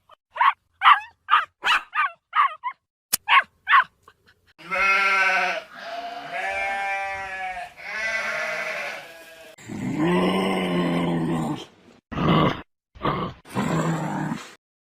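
A run of about eight short, quick animal calls, then sheep bleating: several long, wavering bleats of about a second each, and a few shorter ones near the end.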